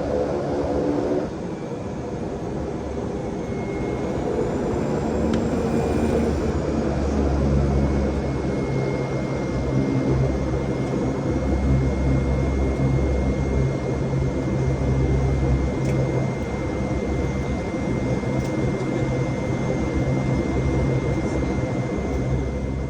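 Airplane engines running with a steady drone and a thin, steady high whine. About a second in, a set of higher engine tones drops away.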